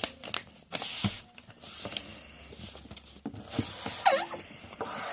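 Sheet of paper being folded and creased by hand: irregular rustling and crinkling with small taps. A brief squeak about four seconds in.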